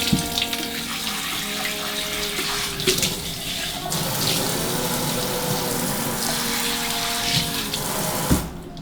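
Water running steadily from a tap into a sink, cut off sharply near the end, with a background song playing underneath.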